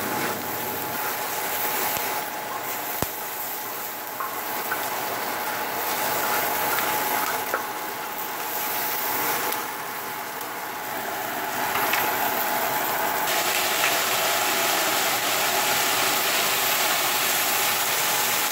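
Diced bell peppers and chicken pieces sizzling in oil on a large flat steel pan, stirred and scraped with a spatula that gives a few small clicks against the pan.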